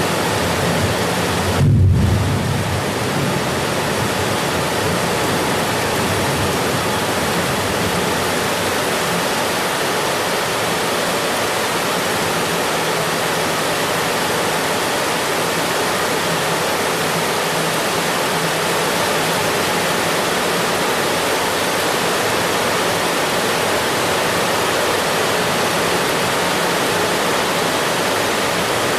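Steady, even hiss of heavy rain, with a brief low rumble about two seconds in.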